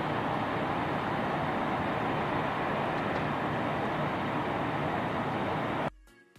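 Steady outdoor rushing noise with no distinct events, cutting off abruptly near the end as music begins.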